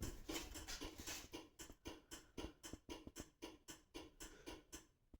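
A quick, irregular run of light clicks and taps, several a second, thinning out toward the end.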